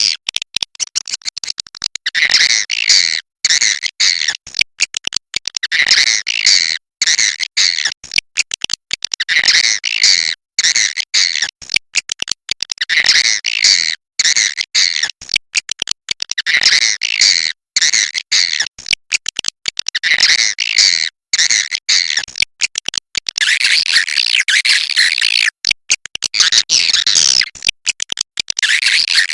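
Swiftlet calls: rapid, clicky chattering twitters in repeated phrases about every three and a half seconds, running into a denser, unbroken chatter about two-thirds of the way through.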